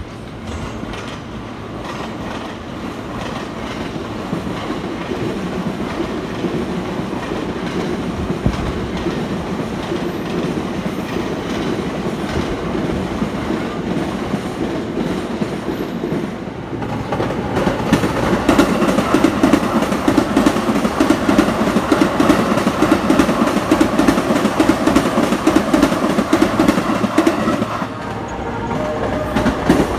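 Trains running past on the tracks below, their wheels clattering over the rail joints and points. The clatter gets louder about halfway through and dips briefly near the end.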